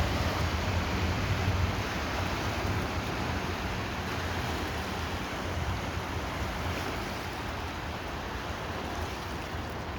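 Boat wake waves washing and breaking, a continuous surging wash with some low wind rumble on the microphone, strongest in the first couple of seconds and then easing slightly.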